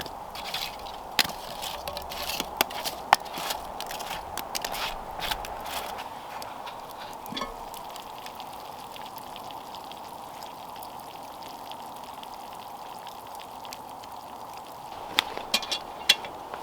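Campfire cooking sounds: a steady hiss with scattered sharp crackles and clicks, thickest over the first few seconds and again in a short cluster near the end.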